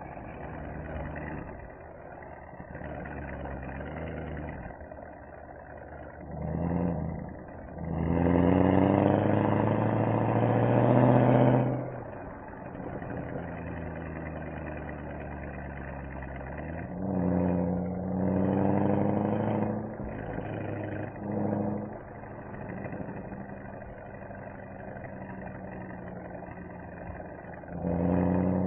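Mercedes-AMG SL63 V8 and its exhaust running on the road, with the pitch rising through several accelerations. The longest and loudest pull comes about a third of the way in, a second one comes past the middle, and there are short surges in between. Between the pulls the engine cruises steadily.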